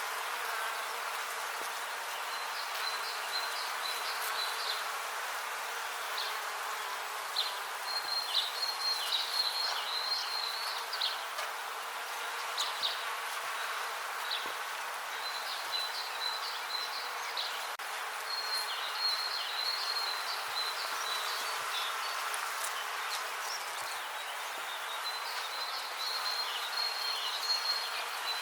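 Many bees buzzing together in a steady, continuous drone. A high chirping call comes in short bouts every few seconds over the hum.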